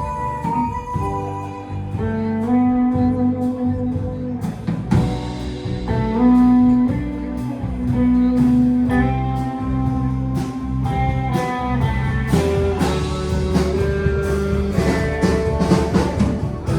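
Live band playing an instrumental passage with a blues feel: an electric lead guitar plays a melodic line of held, stepping notes over bass and drums.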